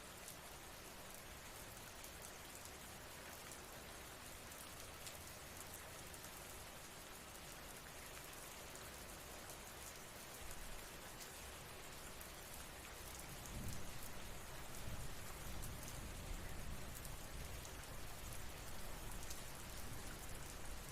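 Steady rain: a soft, even hiss with scattered drop ticks. About two-thirds of the way through, a low rumble swells in beneath it and stays.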